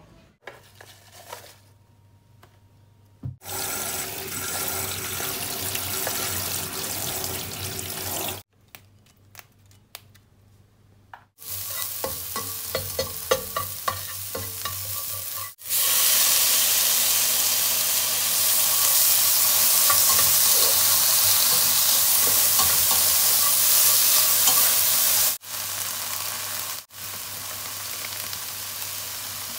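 Chopped garlic and chillies, then squid, sizzling in hot oil in a nonstick pan, stirred with a spatula that scrapes and taps the pan. The sizzle is loudest and most even through the middle, with two short near-quiet gaps, at the start and about a third of the way in.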